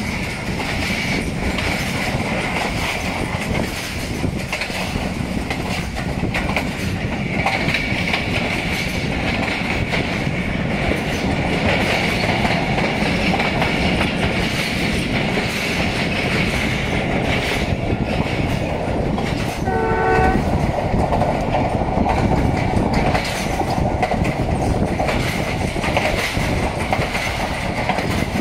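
Passenger train coach running on the rails: a steady rumble with the clickety-clack of the wheels over the track. About twenty seconds in, a short train horn blast sounds once.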